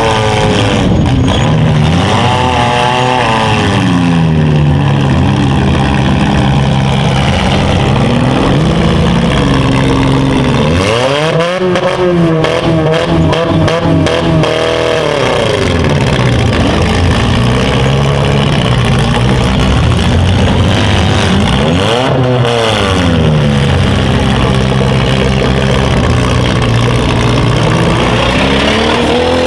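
Small-car demolition derby engines revving hard and dropping back again and again, several running at once, with sharp knocks of impacts during the biggest revs in the middle.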